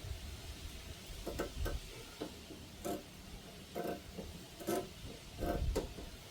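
Irregular sharp metallic clicks and light knocks, about one a second, from hand tools working on a car's front suspension strut.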